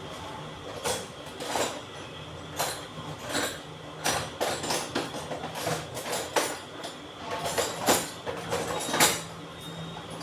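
Metal tools and water-pump parts clinking and knocking at irregular intervals, about a dozen sharp strikes.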